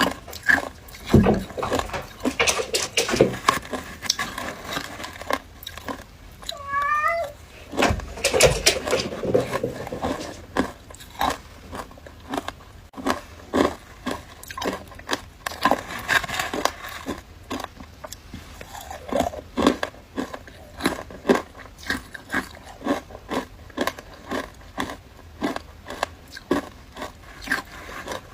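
Close-up biting and crunching of frozen ice, a dense run of sharp irregular crunches with chewing between them. About a quarter of the way through there is a brief high, rising squeak-like sound.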